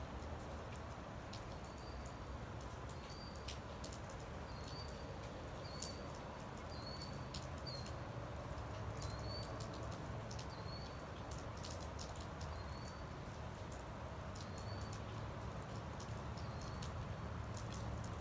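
Steady rain falling, with scattered sharp drip clicks. A bird repeats a short chirp roughly once a second, stopping a few seconds before the end.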